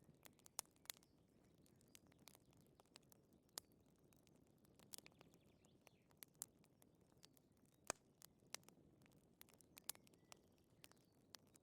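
Wood fire crackling faintly: irregular sharp pops and snaps over a soft low rush.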